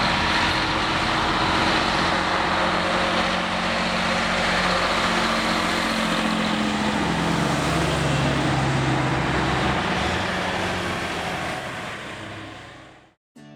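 Old truck engine running loudly, its pitch sinking a little about halfway through, then fading away near the end.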